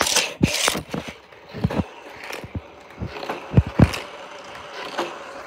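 Handling noise: a scatter of short plastic clicks and knocks as a small Hot Wheels Mario Kart toy kart is picked up and turned in the hand, with two louder knocks close together a little past halfway.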